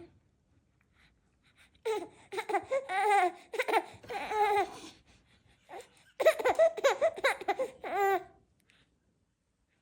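Baby laughing and babbling in two high-pitched, warbling bouts, the second starting about six seconds in.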